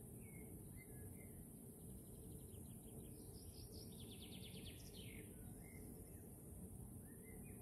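Faint outdoor quiet with a small songbird calling: a few short chirps, then a fast trill of about ten notes a second for some three seconds, and another chirp near the end, over a steady low rumble and a high hiss.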